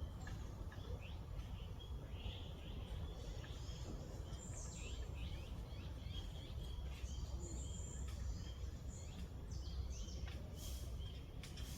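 Several small birds chirping and calling, many short high chirps and quick down-sweeping notes overlapping, over a steady low background rumble.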